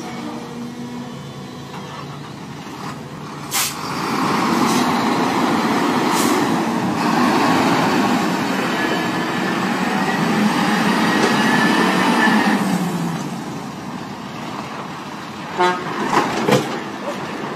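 A truck and road traffic, swelling louder from about four seconds in and easing after about twelve, with a horn sounding. A few sharp knocks are heard near the start and near the end.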